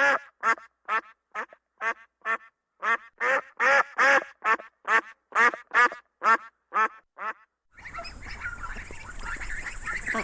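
Duck quacking in a steady series, about two to three loud quacks a second with clean gaps between them. About three-quarters of the way through, this cuts off and a different recording begins: a steady hiss with faint, short calls.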